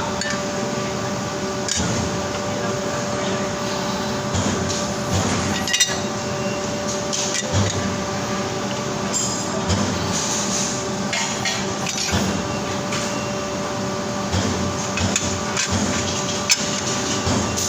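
CNC bending machine running with a steady hum of held tones, with sharp metallic knocks and clanks now and then, the clearest about six seconds in and near the end.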